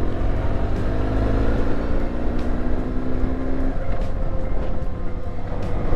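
BMW R1150GSA's boxer-twin engine running under way with road and wind rush. The engine note climbs slowly, then drops away a little over halfway through, as the throttle eases or a gear changes.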